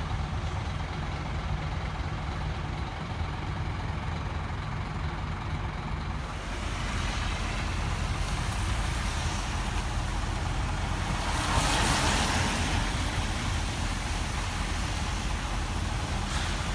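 Scania K270 bus's diesel engine running steadily. Its sound changes about six seconds in, and there is a loud hiss around twelve seconds in.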